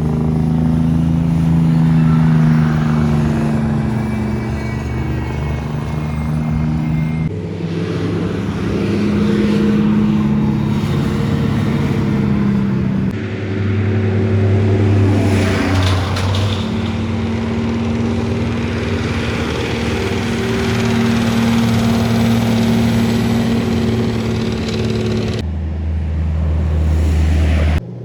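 Heavy trucks' diesel engines running as they pass on a highway hill, a steady pitched engine note throughout. The sound changes abruptly several times as one truck's pass gives way to the next.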